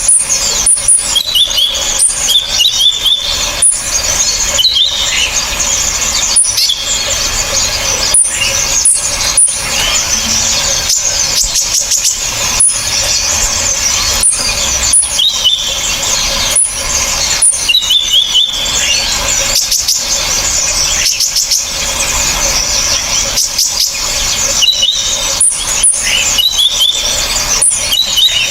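Mixed recording of several small songbirds calling loudly: dense, sharp, high-pitched twittering with short piercing notes about every second and rising squeaky phrases, broken by frequent abrupt cuts. It is a combined masteran track of sunbird, blue-crowned hanging parrot, kinoi and woodpecker calls used to teach captive songbirds new phrases.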